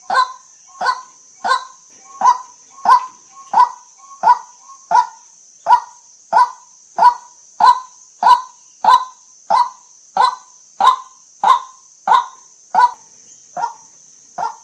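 White-breasted waterhen calling: one short, harsh note repeated evenly about one and a half times a second, with a few fainter answering notes in between. A steady high-pitched hiss runs underneath.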